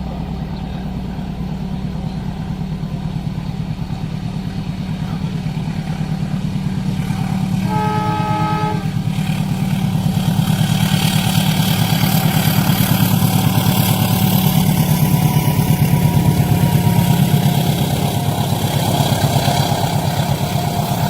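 Heavy engine drone growing louder, with a horn held for about a second around eight seconds in, then a broad rushing noise building from about ten seconds: a train approaching and passing a level crossing.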